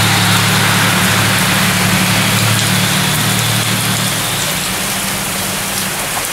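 Heavy rain pouring down in a thunderstorm, a steady hiss, with a low engine-like hum underneath that fades out about two-thirds of the way through.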